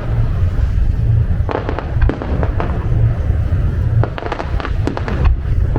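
Aerial fireworks display going off continuously, with a steady low booming. Two clusters of rapid crackling pops come through, about a second and a half in and again about four seconds in.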